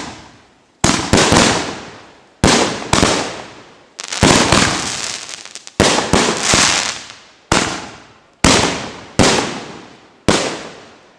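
Fireworks going off: a quick run of about ten sharp bangs in eleven seconds, each trailing off into crackle over about a second.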